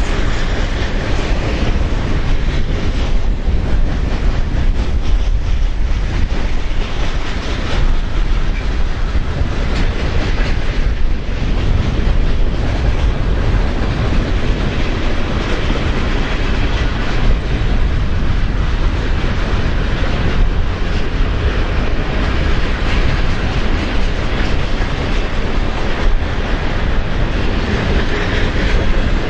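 Freight cars of a long mixed freight train rolling steadily past, with heavy wind buffeting the microphone.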